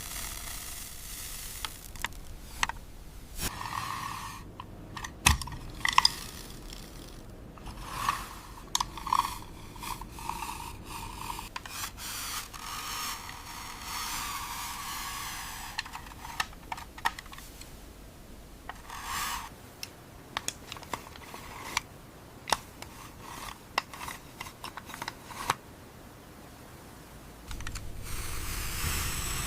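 Plastic toy construction vehicles worked through sand: scraping and rustling of sand with scattered sharp clicks and knocks of plastic parts. A steadier, louder rustle of sand comes in near the end.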